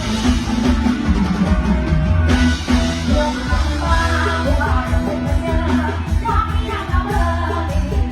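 Loud live mor lam band music with a heavy, steady bass and drum kit, and a melody line of singing over it.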